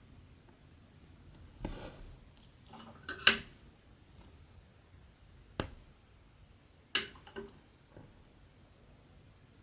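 Small handwork sounds of cross-stitching: soft rustles and a few short, sharp clicks, the loudest about three seconds in.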